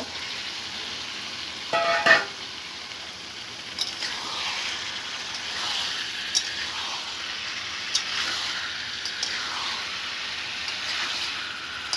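Raw potato chunks tipped into a kadhai of frying chicken masala and stirred in with a metal spoon: steady sizzling with scattered sharp scrapes and taps of the spoon on the pan, and a brief louder sound about two seconds in.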